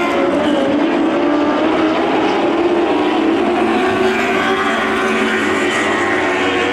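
Several lightning sprint cars with motorcycle engines racing together, the high-revving engines overlapping, their pitch rising and falling as they lap.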